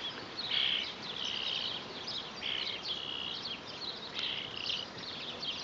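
A young bird, a fledgling close to flying, chirping over and over in a string of short, high calls, about one or two a second.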